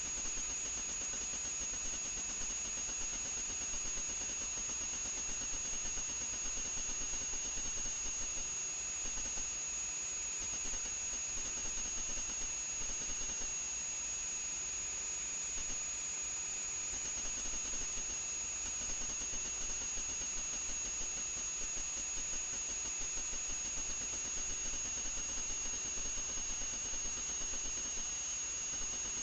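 FPV quadcopter's motors and propellers whining, a steady high-pitched whine that wavers a little in pitch, over a constant hiss.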